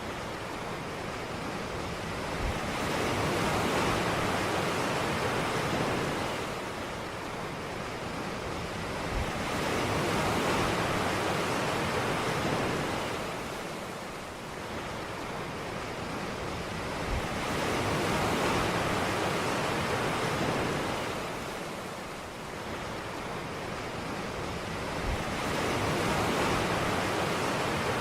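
Ocean surf breaking on a beach, the wash swelling and receding in slow cycles about every seven to eight seconds.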